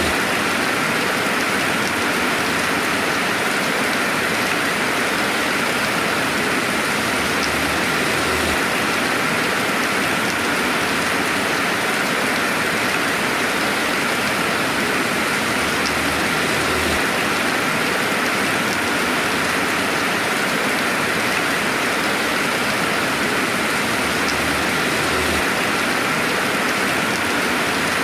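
Steady rain with no thunder: a dense, even hiss of rainfall, with faint scattered drop ticks.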